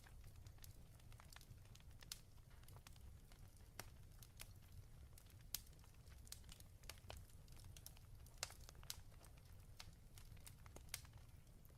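Quiet fireplace fire crackling: irregular sharp pops and snaps, a few louder ones, over a steady low rumble.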